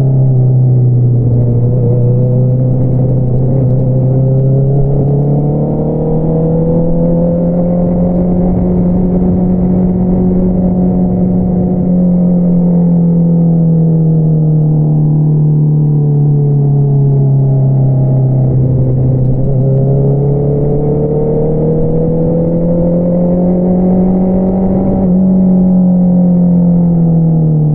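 2022 Honda CBR650R's inline-four running through an Akrapovič single-outlet exhaust while riding, its note rising and falling smoothly twice with the throttle. There is a brief break in the note near the end.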